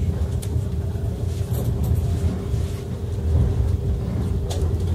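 Cabin noise of a 485-series electric limited express train running: a steady low rumble with a constant hum and a few faint clicks.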